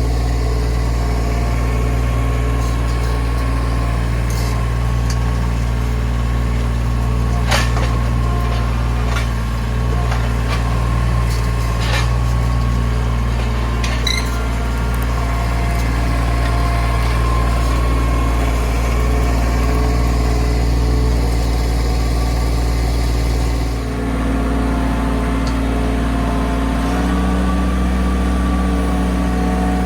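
A vehicle engine starts and runs steadily, with a few sharp knocks and rattles. About 24 seconds in, the engine note dips briefly and then settles at a different pitch.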